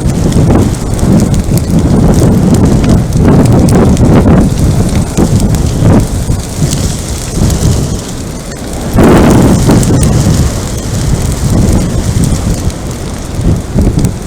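Wildfire burning around the trail camera: a loud, low, fluctuating rumble with crackling through it, swelling to a louder surge about nine seconds in.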